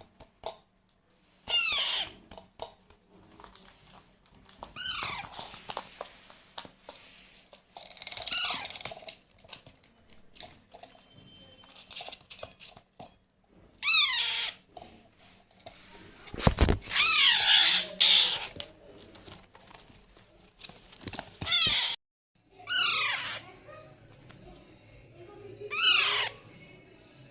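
Baby Alexandrine parakeet calling, about eight separate calls that each fall in pitch, spaced a few seconds apart. A sharp knock sounds about midway.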